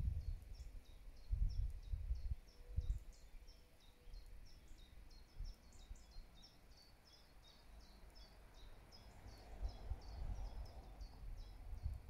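A small bird repeating short, high chirps about three times a second. Low rumbling gusts of wind buffet the microphone, loudest near the start and again late on.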